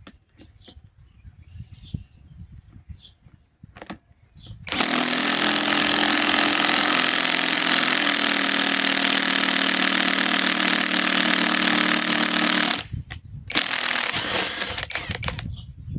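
Hercules Gen 2 cordless compact impact wrench hammering steadily for about eight seconds, stopping briefly, then hammering again for about two seconds as it drives a fastener. The fastener meets resistance, which the user puts down to something in the way inside.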